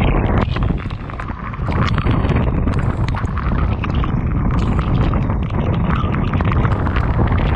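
Heavy rain with strong wind buffeting the microphone, a dense hiss of rain scattered with many sharp drop impacts.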